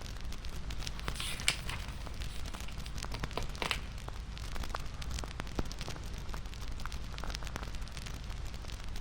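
Wood fire crackling: irregular sharp snaps and pops over a steady low rumble, with two brief brighter bursts of hiss about a second and a half and three and a half seconds in.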